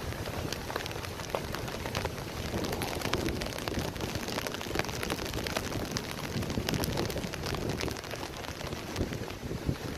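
Heavy thunderstorm rain pouring steadily, with many sharp drop hits close to the microphone and a low rumble beneath.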